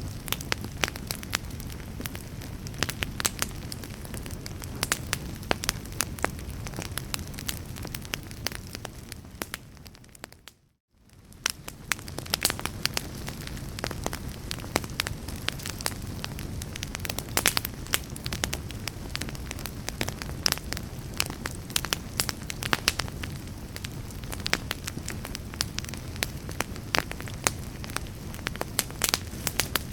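Fire in a fireplace crackling, with irregular sharp pops and snaps over a steady low rumble of flame. About ten seconds in, the sound fades briefly to near silence and then fades back in.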